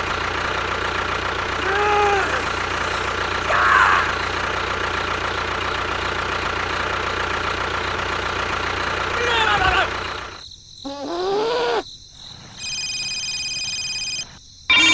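A small engine, of the kind that drives a toy tractor, running at a steady idle, with short squeaky voice-like cries over it. About ten seconds in, the engine cuts out. A sliding cry follows, then a steady electronic tone for a second or two.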